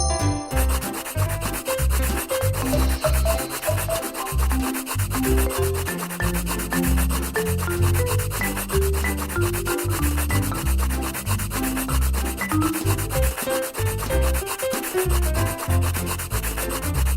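A coloring tool scribbling rapidly back and forth on paper, a steady scratchy rubbing that starts about half a second in, over background music.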